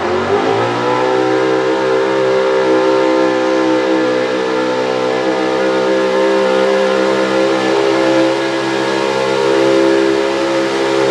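Pro Stock 4x4 diesel pulling truck engine at full throttle under load, climbing in pitch in the first second and then held at a steady high-revving whine.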